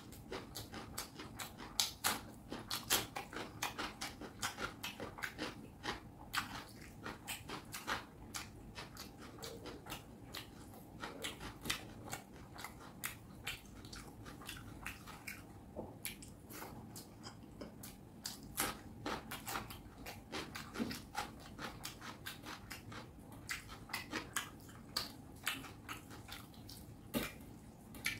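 Close-miked chewing and biting of fish curry and rice: a steady run of sharp mouth clicks several times a second, with a short lull about halfway through.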